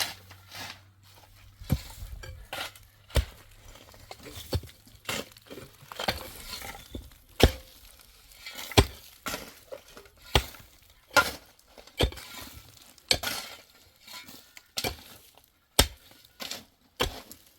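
A series of sharp knocks and clinks of hard objects being handled, irregular, about one a second, with a faint hiss between them.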